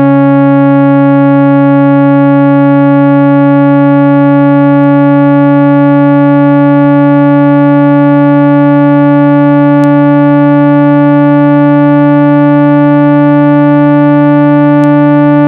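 Loud, steady 165 Hz electronic tone with a stack of overtones above it, holding one pitch and level throughout: a speaker-cleaning tone meant to shake dust out of a phone's speaker grille.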